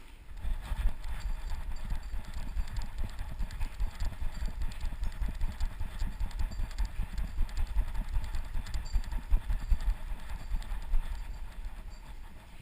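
A running dog heard through its chest-harness camera: rapid, rhythmic thumps of its strides with the rumble of the jostling mount. It picks up about half a second in and eases off near the end.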